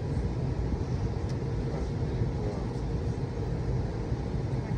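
Steady low rumble and hum of an airliner cabin, with a faint constant tone above it.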